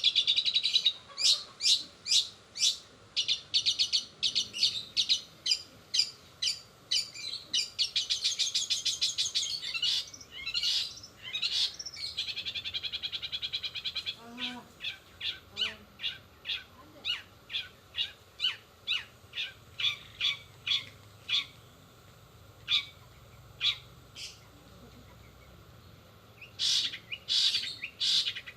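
Long-tailed shrike (cendet) singing a fast, rapid-fire song of sharp, high chirps and trills, with mimicked fill-ins of sparrow and canary calls. The song thins to a near lull a few seconds before the end, then starts again.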